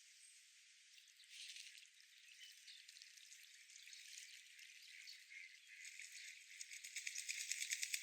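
Soft outdoor hiss with faint scattered chirps, then a rapid rattling run of clicks, about ten a second, growing louder over the last two seconds.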